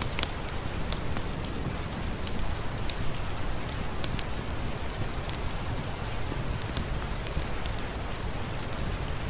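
Steady rain, an even hiss with a low rumble beneath, with a wood fire crackling: scattered sharp pops and ticks over the rain.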